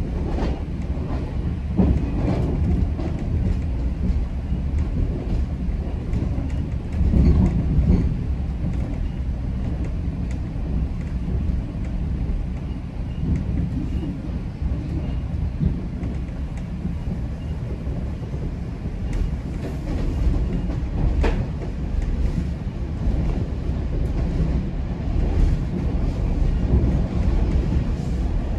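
GO Transit commuter train running between stations, heard from inside a passenger coach: a steady low rumble of wheels on rail with scattered clicks. It gets louder for a moment about seven seconds in, and there is a sharp click about twenty-one seconds in.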